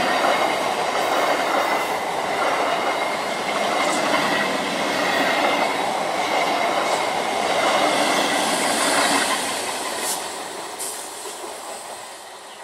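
An Indian Railways electric multiple unit (EMU) local train passes close by, wheels and coaches rumbling steadily with a high whine over the top. Near the end a few sharp clacks come from the wheels, and then the noise fades away as the train recedes.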